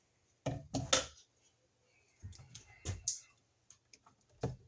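A few scattered sharp knocks and clicks, about four over several seconds, with faint rustling between them: tools and materials being handled during electrical work.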